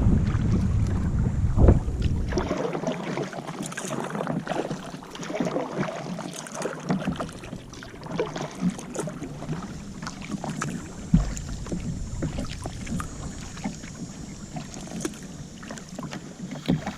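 Water splashing and lapping around a kayak, with irregular small clicks and knocks of paddle and hull. Wind buffets the microphone for the first couple of seconds.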